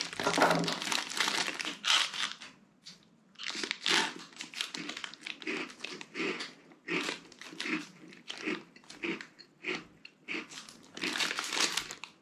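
Plastic snack packet crinkling as it is handled, then a person chewing crunchy chocolate-coated malt biscuits (Arnott's TeeVee Snacks) at about two chews a second, with the packet crinkling again near the end.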